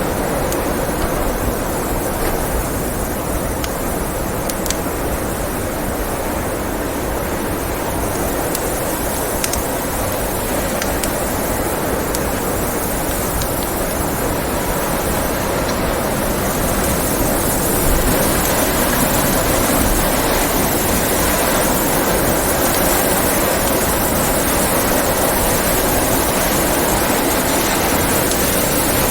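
Steady blizzard wind blowing, with occasional crackles from a wood fire. The wind swells a little about two-thirds of the way through.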